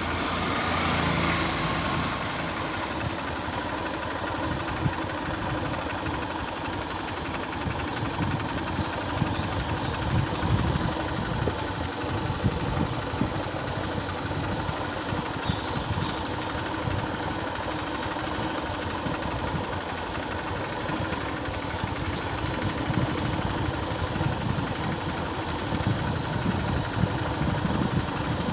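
A vehicle's engine running steadily, with an even rushing noise over it.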